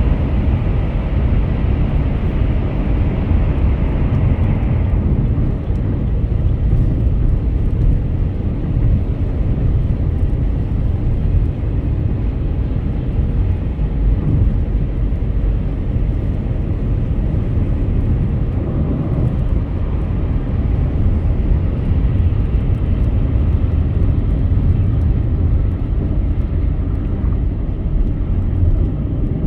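Car travelling at highway speed: a steady, low rumble of tyre, road and engine noise, with a higher hiss that drops away about five seconds in.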